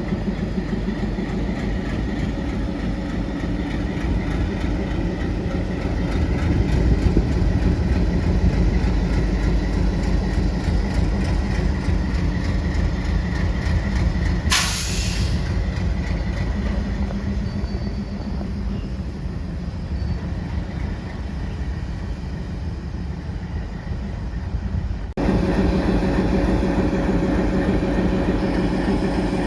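ALCO WDM-3D diesel locomotive's V16 ALCO 251 engine idling with a steady low rumble and hum. About halfway through there is one short, sharp hiss of released air. About 25 s in, the sound changes abruptly to a louder, closer engine note.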